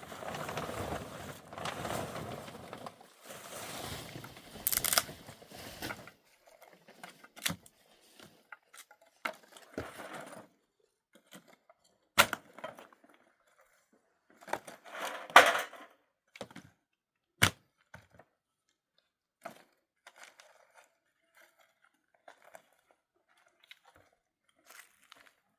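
Handling noises: rustling and scraping for about six seconds, then scattered sharp knocks and cracks with short crunching passages between them, loudest about halfway through.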